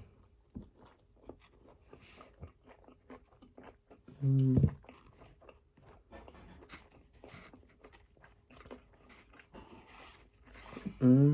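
Close-up chewing and biting of a soft, saucy McRib sandwich: wet smacking and crunching clicks throughout. A short pitched voice sound comes about four seconds in and again at the end.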